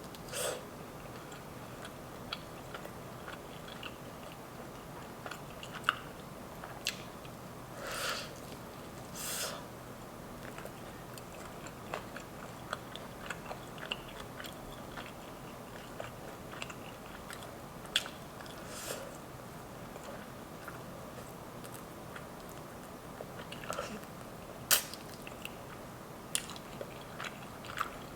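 Chewing and biting on a sauced Asian Zing chicken wing, with scattered sharp mouth clicks and smacks.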